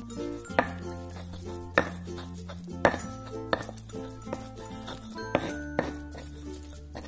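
Stone pestle grinding spice paste in a stone mortar: a scraping rub with a sharp stone-on-stone knock about once a second. Background music plays underneath.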